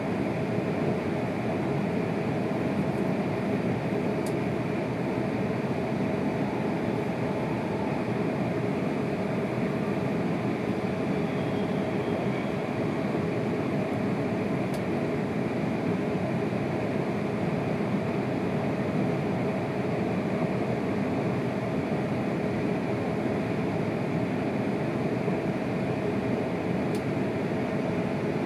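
Steady running noise inside a Tohoku Shinkansen car at speed: an even rumble and rush with a faint steady hum.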